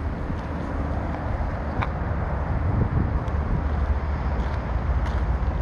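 Rough sea surging and breaking against a rock jetty in strong wind, a steady wash of surf with heavy wind rumble on the microphone.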